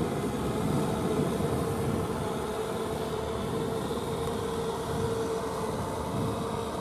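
Kubota M6040SU four-wheel-drive tractor's diesel engine running steadily under load while it rotary-tills wet paddy soil, with an even hum.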